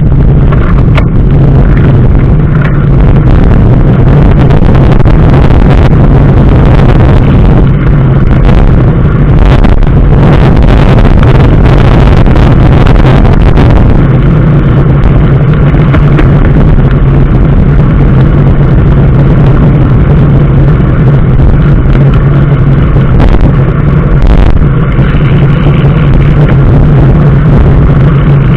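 A road vehicle travelling at a steady speed: a constant low drone with road and wind noise, very loud and unchanging throughout.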